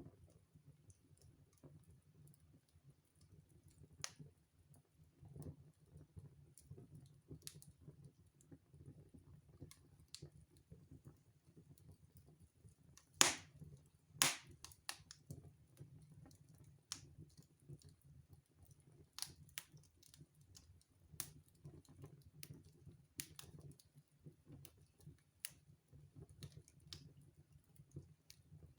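Wood fire crackling in a fireplace: scattered sharp pops at irregular intervals over a faint low rumble, with two louder pops a second apart about halfway through.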